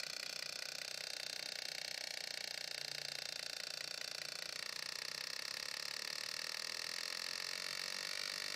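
Small loudspeaker on an injection-valve emulator board sounding the combined injector drive pulses from a MAN engine's ECU: a steady, fast run of ticks like a running engine's injectors. About halfway through, the pattern shifts slightly.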